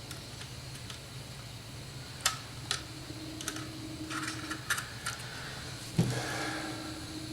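Small sheet-metal toy gun parts clicking and tapping as they are worked into line by hand, with a louder knock about six seconds in, over a steady low hum.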